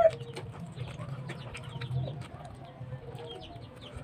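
Close-up eating sounds: chewing and lip smacks from someone eating by hand, heard as many small irregular clicks over a low hum. A rooster's crow trails off in the first instant, and faint bird calls come in behind.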